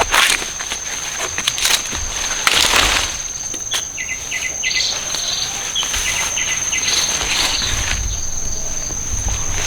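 A steady, high-pitched insect drone, with a run of short bird chirps in the middle and a few brief rustles of plant material in the first few seconds.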